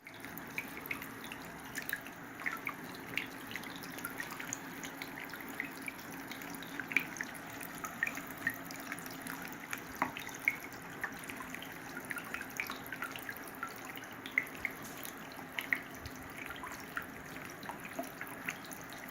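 Tabletop water fountain running: water trickling and splashing in many small irregular drips and plops over a steady low hum from its small electric water pump.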